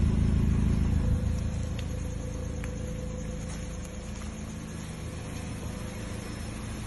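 A car's engine idling with a steady low hum that drops noticeably in level about a second in.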